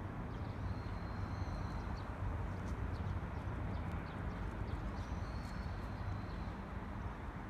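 Outdoor ambience: a steady low rumble, with short high chirps and ticks scattered over it and two high whistling tones, one about a second in and one around five seconds in, each lasting about a second.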